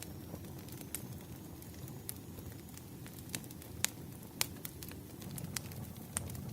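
Wood fire crackling: a steady low rumble of burning logs with irregular sharp pops and snaps, the loudest a little past the middle.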